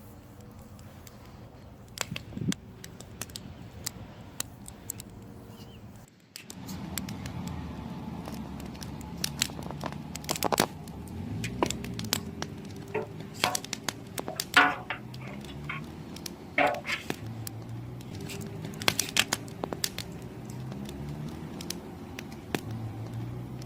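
Firewood burning, crackling with many irregular sharp pops and snaps over a low steady hum.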